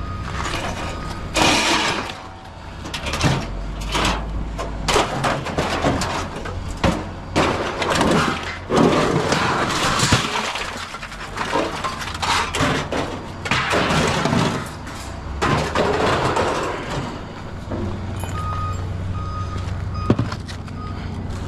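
Scrap metal clanging and crashing in irregular knocks as it is unloaded, over the steady hum of an idling vehicle engine. A short series of beeps comes in near the end.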